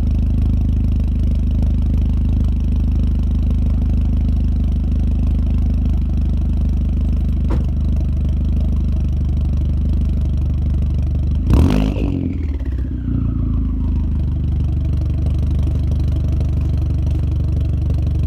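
A vehicle engine idling steadily after a cold start. About two-thirds of the way through there is a brief loud burst, followed by a whine that falls in pitch over a couple of seconds, and then the idle carries on.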